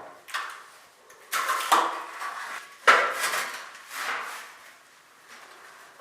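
Hard objects clattering and clanking against each other in about four bursts, the loudest about three seconds in, then fading.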